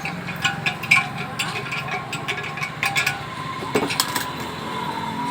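Irregular metallic clicks and clinks of tools against pressure-cooker parts as the handles are fitted and tightened.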